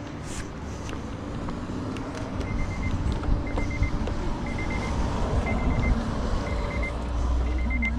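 Tow truck's engine running with a low rumble that swells near the end, while an electronic warning beeper sounds short quick pips, one group about every second, from a couple of seconds in.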